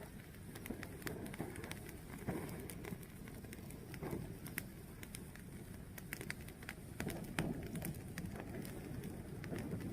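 Fire burning and crackling: a low steady rumble with scattered sharp pops and snaps.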